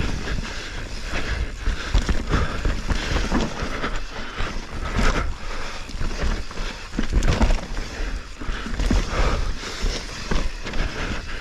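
Mountain bike descending a dirt trail: tyre noise on the dirt, with repeated knocks and rattles from the bike over bumps and roots, and wind rumbling on the microphone.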